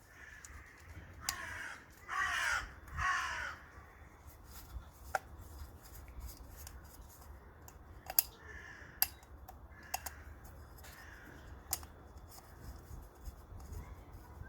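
A crow cawing three times in quick succession, followed by a few sharp clicks and taps from hands fitting a new O-ring to the oil filter part.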